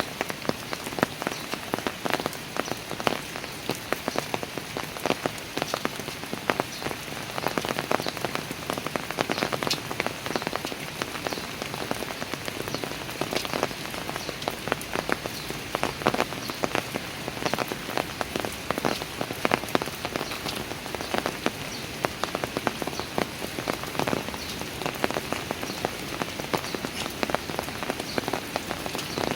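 Steady rain falling, with many sharp close drops spattering on hard surfaces.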